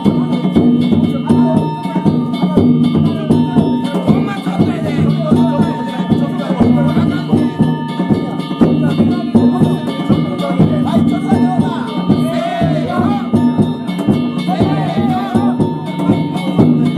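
Danjiri hayashi, the float's festival music: small metal gongs (kane) struck in a fast, unbroken clanging rhythm over drums.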